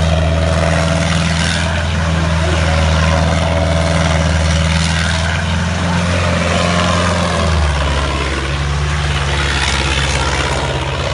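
Ford tractor engine running steadily under load, its low hum dropping to a lower pitch about seven and a half seconds in as the engine slows.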